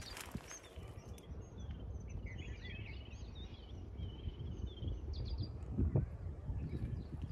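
Small birds chirping and twittering in quick runs of short calls over a low, uneven rumble, with a soft thump about six seconds in.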